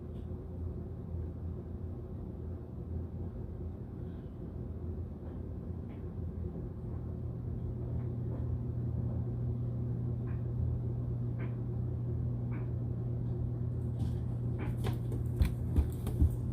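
Steady low hum of room background noise from an unseen appliance or machine, growing a little louder about halfway through, with a few faint ticks and then a cluster of small clicks and knocks near the end.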